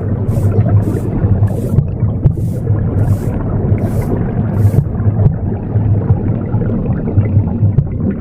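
Low, rumbling womb sound (the whooshing of blood flow as heard inside the womb) running continuously, mixed with the swish of broom sweeps: about seven strokes in the first five seconds, then the sweeping stops and only the womb rumble goes on.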